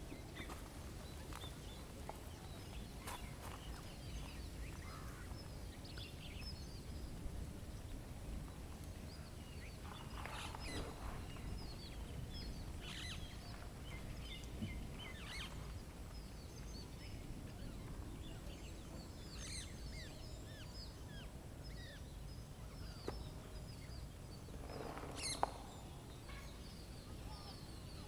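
Many birds chirping and calling, short high notes scattered throughout, with a louder call about ten seconds in and another near the end, over a steady low rumble of outdoor background noise.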